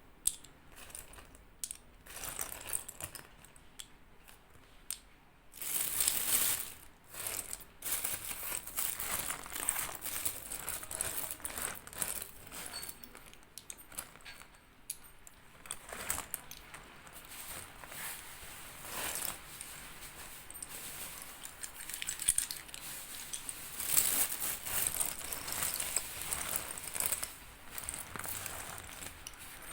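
Slate pencils crunching and snapping close to the microphone: a dense run of crisp, irregular crackling clicks, with louder bursts about 6 s in, around 16 s and around 24 s.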